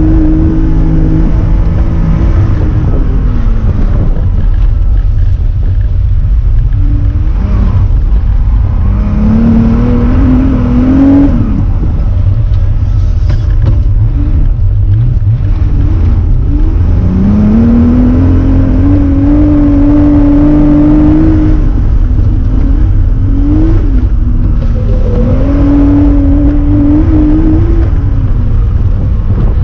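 Air-cooled flat-six of a classic Porsche 911 rally car heard from inside the cabin, pulling hard with its pitch climbing and then dropping several times as it accelerates and lifts between corners. A heavy low rumble runs underneath.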